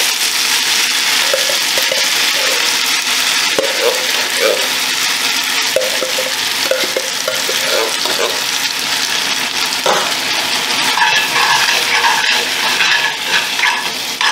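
Diced Spam and baked beans sizzling in a hot cast-iron skillet, with a metal spoon scraping beans out of a tin can in short strokes. From about eleven seconds in the spoon stirs the food in the pan.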